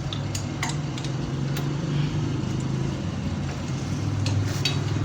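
An engine idling steadily, with a few sharp clicks scattered over it.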